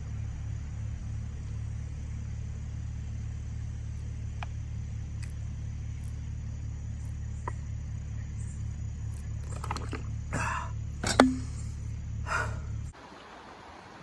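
Steady low rumble with a faint even pulsing, like a vehicle engine running, with a few clicks and handling rustles near the end and one sharp click. The rumble cuts off suddenly shortly before the end.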